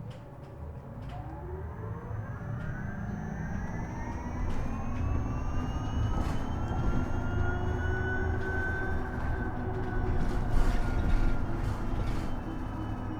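Isuzu Erga EV electric bus pulling away: its traction motor and inverter whine, several tones together, rising in pitch as it accelerates and levelling off about eight seconds in, over a growing low road rumble.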